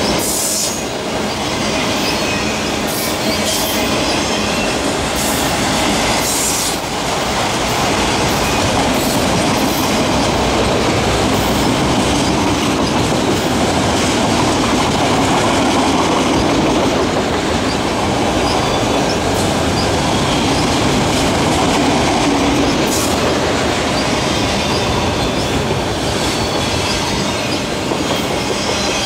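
Autorack freight cars of a long freight train rolling past: steady rolling noise of steel wheels on the rails, with scattered clicks as the wheels pass over the rail joints.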